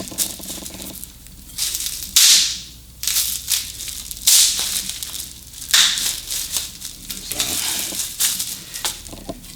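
Packaging being handled during an unboxing: several bursts of crinkling and rustling, the loudest about two and four seconds in and a longer stretch near the end.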